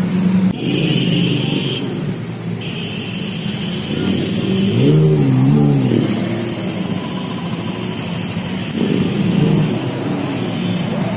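Lamborghini supercar engines and street traffic with motorbikes going past, with an engine revving up and down a few times about five seconds in.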